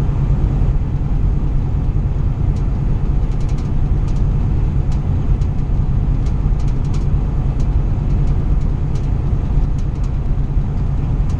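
Steady low rumble of a semi-truck's engine heard from inside the cab, with a few faint ticks.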